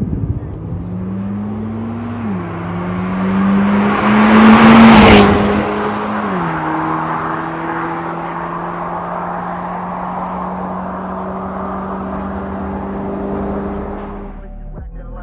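Hyundai Elantra Sport's 1.6-litre turbocharged four-cylinder sounding through an MS-R valved muffler, revved in held steps. The pitch climbs and drops back twice, with the loudest surge about five seconds in, then settles at a steady raised speed.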